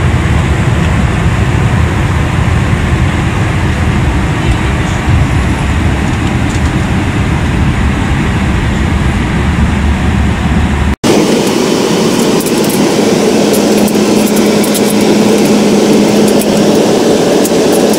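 Steady background noise in the galley of a Boeing 737-800: a deep rumble that, after a brief dropout about eleven seconds in, gives way to a steady hum with hiss and faint ticks.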